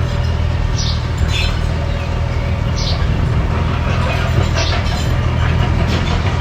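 Mini bulldozer's engine running steadily with a low drone, and short high-pitched squeaks or chirps coming every second or two.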